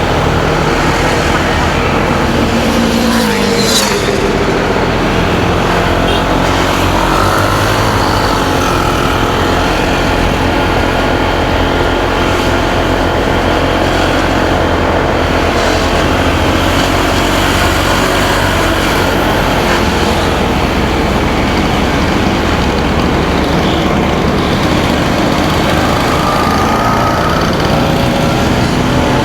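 Motorcycle engine running under way, with wind and road noise. The engine note dips and then climbs again about three to four seconds in.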